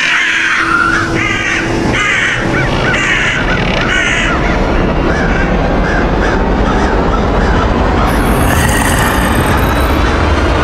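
A flock of crows cawing, many harsh calls in quick succession through the first half that thin out, over a low steady rumble that grows stronger in the second half.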